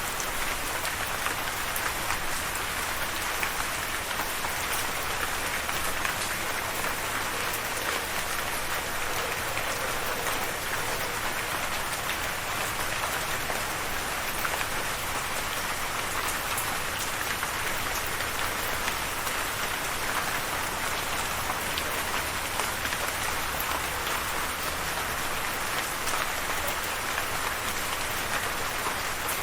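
Steady rain falling, an even hiss with dense crackling patter of drops on a surface, unchanging throughout.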